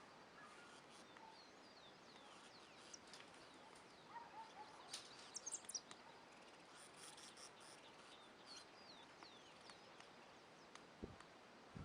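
Faint wild birds chirping and calling in short scattered notes over a quiet background, with a soft low thump near the end.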